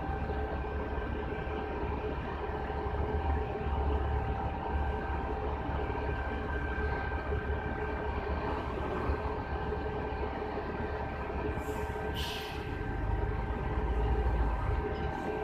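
Steady machine drone: a low rumble with a constant hum. A short hiss, like air escaping, comes about twelve seconds in.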